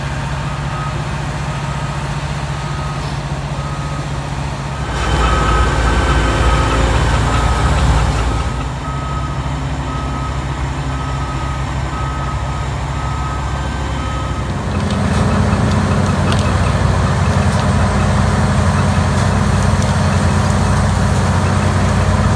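Large machine engine running steadily, with a reversing alarm beeping at a regular pace. The beeping stops about two-thirds of the way through, and the engine sound then grows louder and heavier, as if coming under load.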